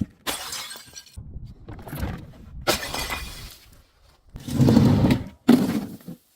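Glass bottles breaking and shattering: a series of crunching, crackling bursts of glass with short pauses between them, the loudest a little before and after five seconds in.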